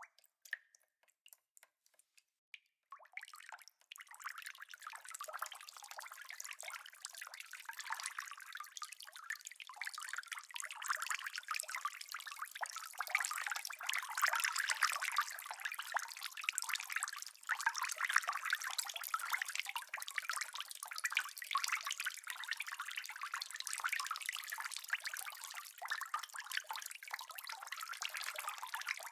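Rain: a few scattered single drops for about the first three seconds, then dense rainfall sets in and grows louder, staying heavy.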